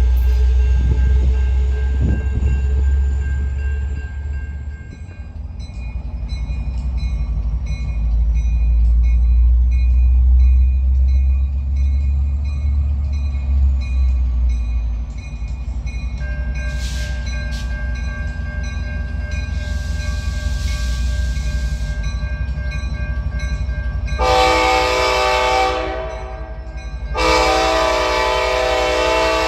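Train rumbling past with a low, steady engine drone. Near the end the locomotive's horn sounds two chord blasts, the second longer.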